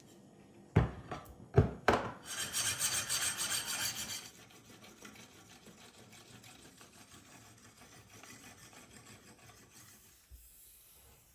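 Sharpening stone stroked back and forth along the edge of a steel knife blade, giving a rhythmic rasping. Three sharp knocks come in the first two seconds, and the strokes turn much fainter from about four seconds on.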